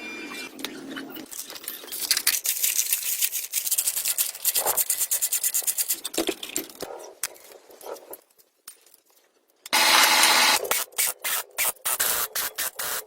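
Abrasive work on a part, likely hand sanding or scraping: fast back-and-forth rubbing strokes. They stop for a second or so, then return louder and choppier.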